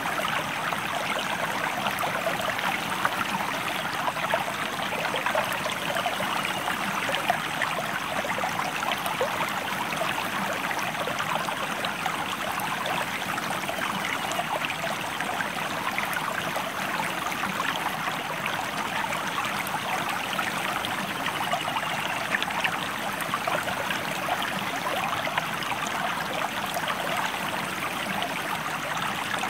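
Stream water flowing and babbling over rocks in a steady, even rush, with fine splashes and trickles throughout.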